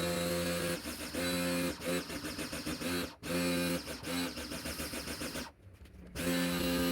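Lotus LTPW 1400C 1,400-watt electric pressure washer's motor and pump running while drawing water from a bucket, the hum stuttering and cutting out again and again before settling back to a steady run near the end.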